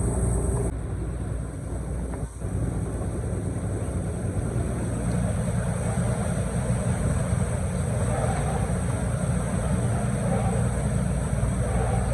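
Canal tour boat's engine running steadily under way, a constant low hum with the wash of water and wind.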